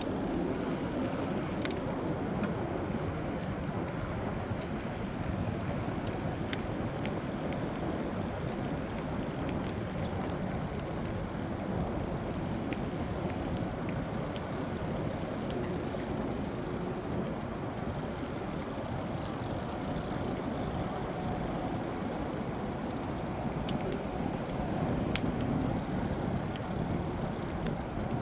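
Steady rumbling noise of an e-bike being ridden, with a few light clicks and rattles scattered through it.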